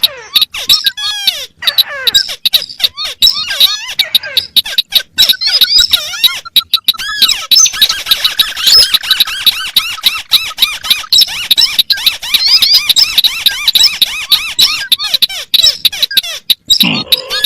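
Recorded calls of paddy-field crakes, the white-browed crake among them, played together as a lure: dense, rapid, squeaky chattering notes from several birds overlapping out of step, with sharp clicks mixed in.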